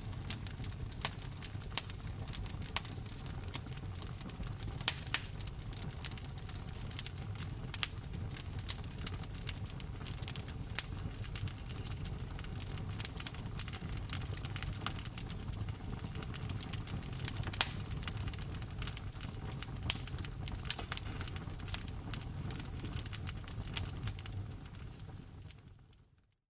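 Wood fire crackling and popping: frequent sharp snaps over a steady low rumble of burning logs. The sound fades away quickly near the end.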